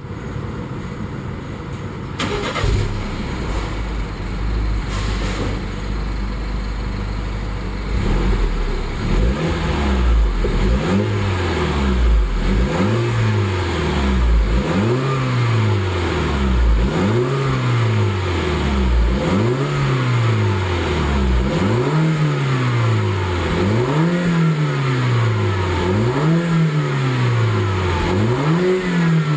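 BMW F20 120i's turbocharged four-cylinder engine heard through an ARQRAY sport exhaust, starting about two seconds in and idling steadily. From about nine seconds in it is revved repeatedly in the stationary car, the pitch climbing and falling back roughly once every two seconds.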